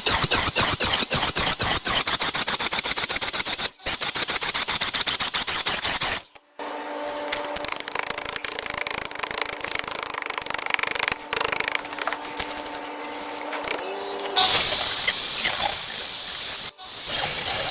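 Power saw cutting wood in several edited takes: first a very rapid, steady clatter, then after a cut a steady motor hum, and from about three quarters of the way in a harsher, noisier cut.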